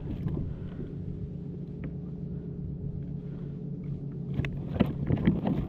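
Boat motor running steadily at trolling speed, a low even hum. A few short clicks and knocks come near the end.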